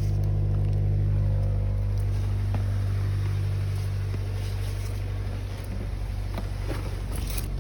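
Fiat 500 Abarth's 1.4-litre turbocharged four-cylinder idling steadily through an aftermarket exhaust with a valved muffler.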